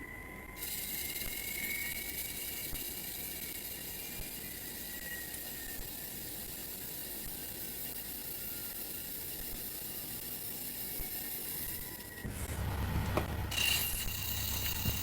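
CNC machine running with a steady high hiss and a faint wavering whine. About twelve seconds in the sound changes to a lower hum with a steady higher tone on top.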